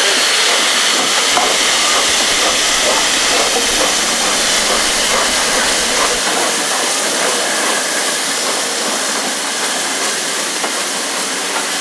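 Loud, steady hiss of escaping steam from the A1 Pacific steam locomotive 60163 Tornado, easing slightly toward the end.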